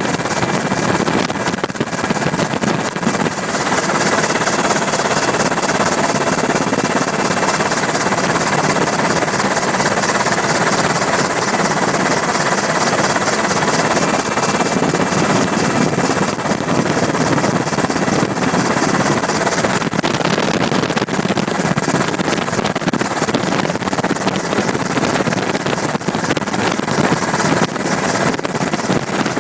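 Steady, loud engine and airframe noise heard from on board a flying aircraft, with a fast, even pulsing running through it.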